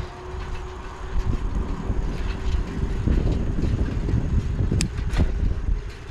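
Wind buffeting the microphone of a bike-mounted camera while riding, with a low rumble. Two sharp clicks come about five seconds in.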